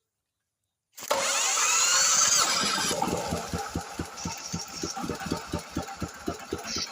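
Small diesel engine being started by an electric starter. A loud whine of cranking runs for about a second and a half, then the engine catches and runs with a steady beat of about five strokes a second.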